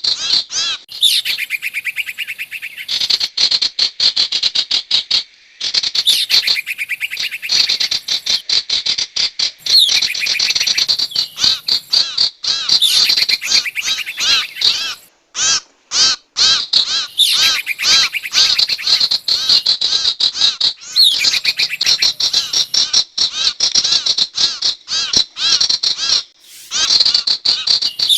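Lure recording of a sirtu bird calling: fast, harsh, chattering notes repeated in phrases of a few seconds with brief pauses, the longest pause near the middle.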